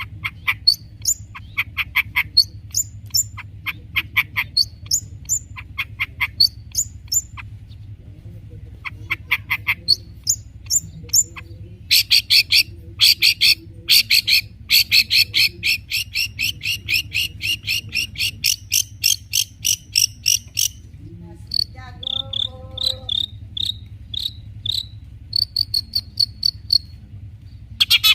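Long-tailed shrike singing loudly: strings of short, sharp rising notes, then a fast chattering run of about eight seconds, then spaced single notes, over a steady low hum.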